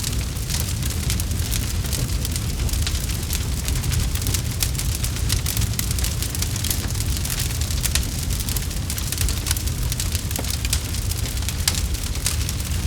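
Campfire burning, wood crackling with a dense, irregular stream of sharp snaps and pops over a steady low rumble of the flames.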